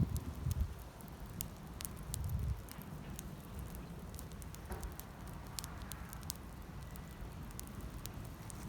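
Wood campfire of gathered sticks crackling, with scattered sharp pops at irregular intervals over a low rumble.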